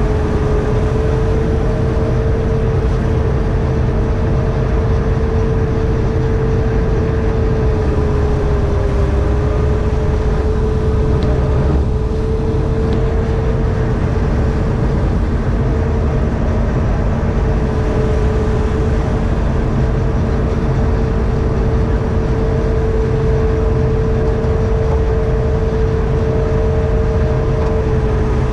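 John Deere 4400 combine running steadily under work: a loud, even drone with a steady whine on top that sags slightly in pitch for a moment about nine seconds in.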